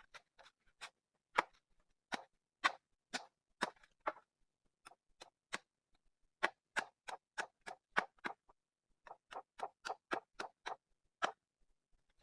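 A long series of sharp taps or clicks, about two to three a second, in runs of several with short pauses between them.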